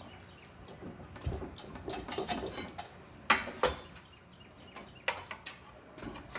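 Metal clanks and scraping as a pry bar works an exhaust manifold loose from the stud it is caught on, with several sharp knocks, the two loudest close together a little past halfway.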